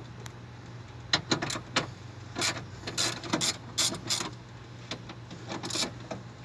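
Irregular mechanical clicks and short rattles, like metal parts or tools being handled, over a steady low hum.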